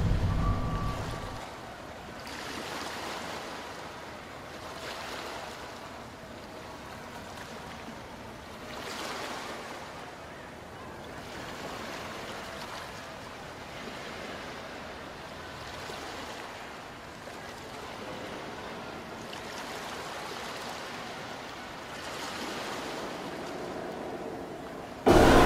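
Ocean waves washing, a steady surf sound that swells and ebbs every few seconds. A louder sound fades out in the first second or so, and a much louder one cuts in abruptly right at the end.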